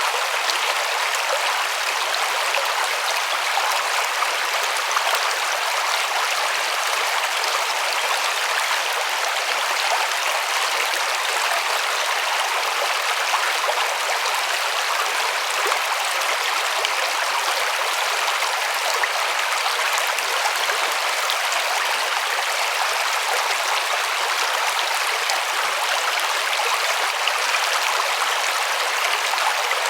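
River water rushing and babbling over stones: a steady, even rush with no pauses.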